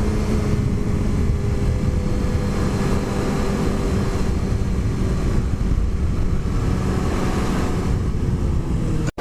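Suzuki GSX-R 750's inline-four engine running at a steady pace through an Akrapovic slip-on exhaust while riding, with heavy wind rush on the microphone. It cuts off suddenly near the end.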